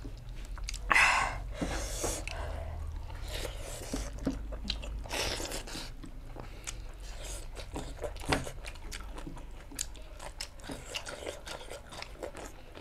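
A person chewing food close to the microphone, with crunching bites and many small wet mouth clicks. A louder noisy sound comes about a second in and again about five seconds in.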